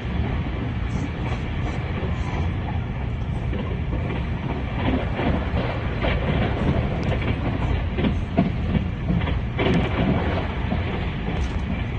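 Puyuma Express tilting electric train running at speed, heard from inside the carriage: a steady rumble of wheels on rail, with bursts of rapid clattering knocks from about five to ten seconds in as the wheels cross rail joints and points.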